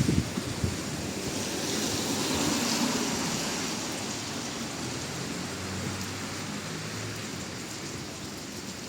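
Steady hiss of a rain-soaked street, with a rushing swell about two seconds in that fades away over the next few seconds.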